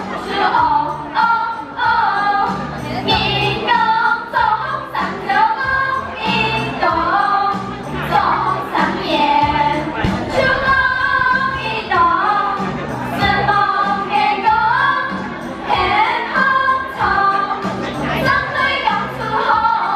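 A Hakka children's song sung in Hakka with instrumental accompaniment, a steady low bass beat under the sung melody.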